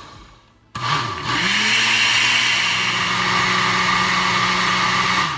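Oster countertop blender blending a frozen peach sorbet mix: the motor winds down at the start, starts again under a second in, rises to a steady speed and runs evenly, then stops and winds down at the end.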